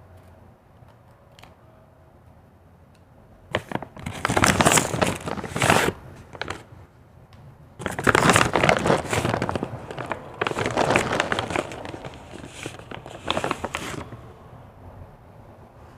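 Close-miked crunching of white ice being chewed, in two long runs of dense crackling crunches: one starting about four seconds in, the other from about eight to fourteen seconds.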